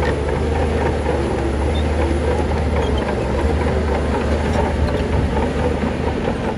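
Heavy diesel earthmoving machinery running steadily with a deep drone, with scattered clanks and rattles over it.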